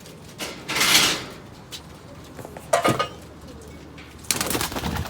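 Domestic pigeons at the loft cooing, with three short bursts of rustling flutter; the loudest comes about a second in.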